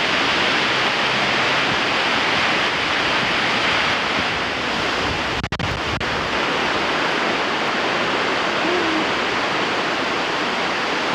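Strong wind blowing hard, a steady loud rushing hiss that drowns out everything else, cutting out for a moment about halfway through.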